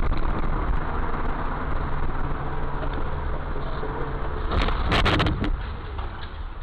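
Steady engine and road rumble of a car recorded by a dashcam, with a loud sudden noise lasting about a second near five seconds in.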